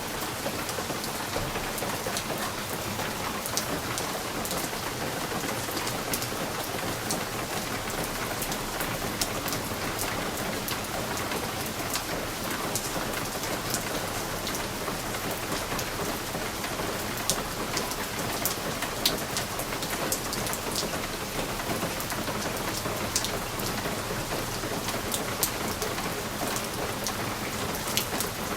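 Steady rain on a window pane: a constant hiss of rainfall with many separate drops tapping sharply on the glass.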